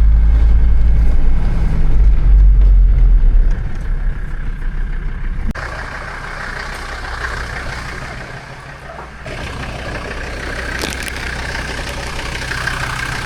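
Motor vehicle engine running with a loud, deep rumble for the first few seconds, then dropping away to quieter, steady driving noise.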